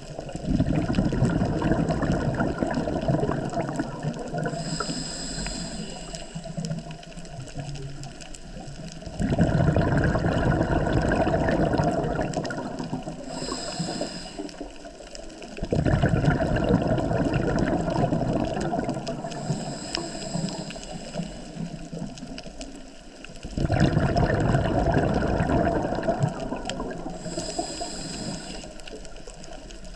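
Scuba diver breathing through a regulator underwater. Four slow breaths each let out a long, loud gurgle of exhaled bubbles that fades away. Between them comes a short, high hiss as the regulator delivers air on each inhalation.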